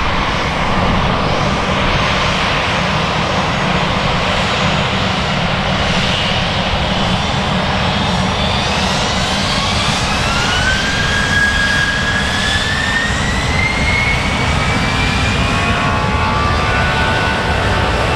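Airbus A321 airliner's jet engines running loud and steady during takeoff. A whine climbs steadily in pitch from about halfway through until near the end.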